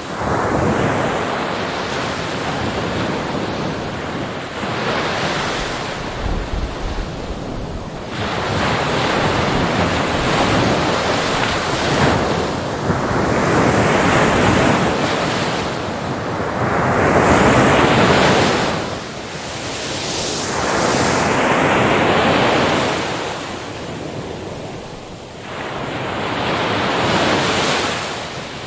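Ocean surf on a beach: waves breaking and washing in, swelling and falling back every few seconds, the loudest surges about halfway through and again near the end.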